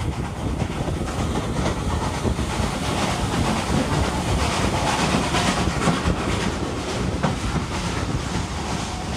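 Hunslet Austerity 0-6-0 saddle-tank steam locomotive working a train, its exhaust chuffing in a steady run of beats over the clatter of wheels on rail.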